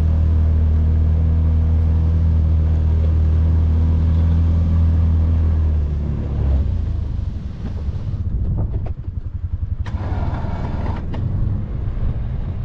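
Can-Am Defender side-by-side engine running at a steady drone. About halfway through, the steady note gives way to an uneven, noisier rumble with a few knocks, with wind on the microphone.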